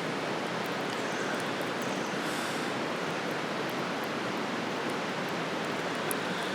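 Wood campfire burning: scattered faint crackles and small pops over a steady, even rushing noise.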